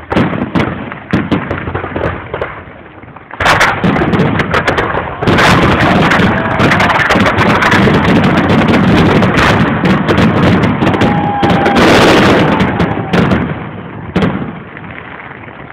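Fireworks display: scattered bangs at first, then about three seconds in a dense, loud run of bangs and crackling that carries on for around ten seconds before thinning out near the end.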